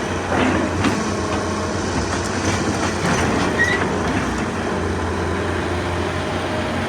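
Excavator working rock: a steady diesel engine hum with a few clanks and scrapes of rock against the bucket.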